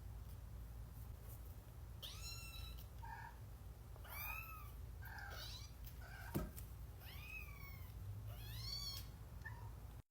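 Kitten meowing, about five thin high-pitched meows that rise and fall, spaced out over several seconds. A single sharp knock about six seconds in.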